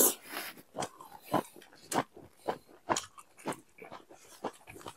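Close-miked chewing with wet mouth clicks and lip-smacks, about two a second.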